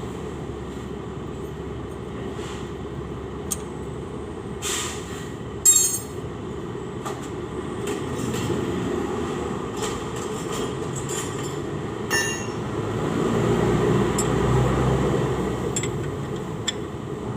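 A steady low rumble that swells about two-thirds of the way through, with a few sharp metallic clinks, most likely hand tools knocking against the engine during disassembly.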